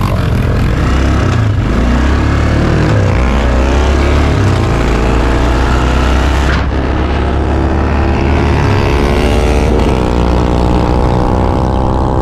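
Kawasaki 400 4x4 quad bike engine running under way, its pitch rising and falling with the throttle, with a sudden change about two-thirds of the way through.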